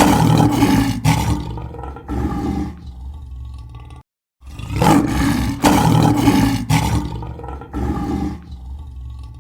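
Lion roaring in two bouts, split by a brief silence about four seconds in. Each bout is a series of deep roars that get weaker as it goes on.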